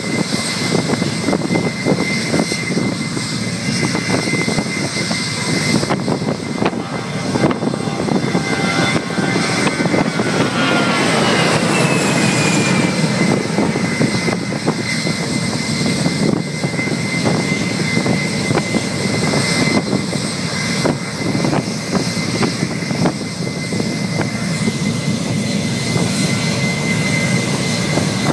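Boeing 757 jet engines running at high power during a ground run-up: a loud, steady roar with a constant whine. Midway through, a higher whine slides down in pitch.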